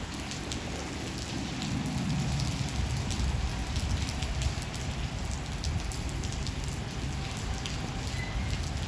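Steady rain falling, with many individual drops ticking on a hard surface over the constant hiss. A low thunder rumble swells and fades about two seconds in.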